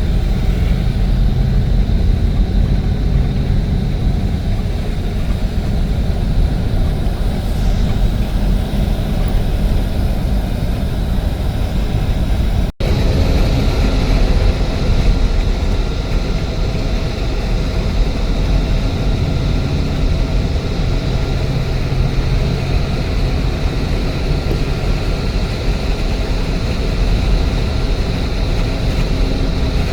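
Steady rumble of a moving vehicle, engine and road noise, broken by a momentary cut a little under halfway through.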